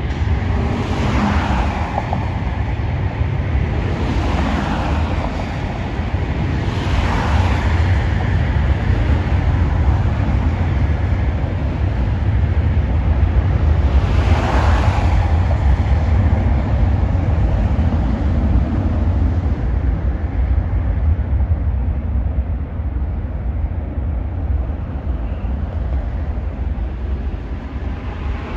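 Deep, steady rumble of jet aircraft engines with wind buffeting the microphone. Several whooshes fall in pitch, about a second, four, seven and fourteen seconds in.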